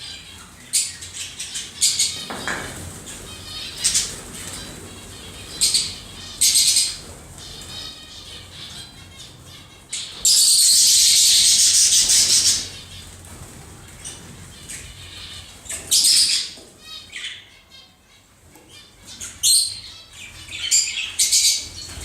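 Small cage birds chirping and squawking in short high calls throughout. About ten seconds in, a loud harsh burst of noise lasts about two seconds.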